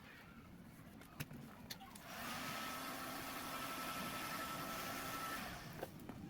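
A handheld hot-air blower switched on about two seconds in: a steady rushing hiss with a thin, even whine, running for about three and a half seconds before it stops. It is the kind of blower used to warm tint film so it stretches over a headlight. Two sharp ticks come before it.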